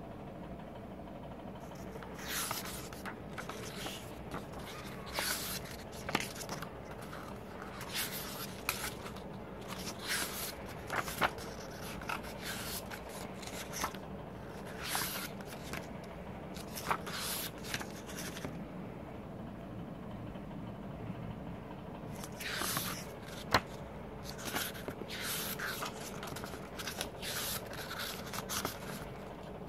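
Paper and plastic album packaging being handled: irregular short rustles and scrapes, with a sharp click about eleven seconds in and a louder one near the end, over a steady low hum.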